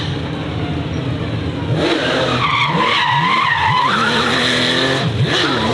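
Racing car sliding with its tyres squealing: a wavering squeal that is strongest from about two seconds in, over the engine revving up and down.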